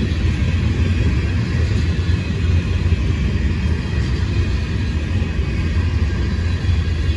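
Train rolling past with a steady, loud rumble and no change in level.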